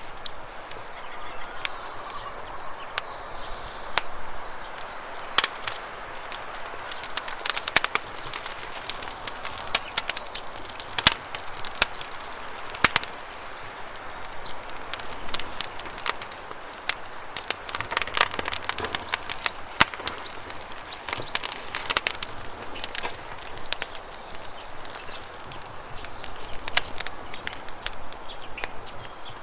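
Wood campfire crackling with irregular sharp pops and snaps over the steady rush of flowing water. A bird gives a quick, high, repeated chirping trill a couple of seconds in and again around ten seconds.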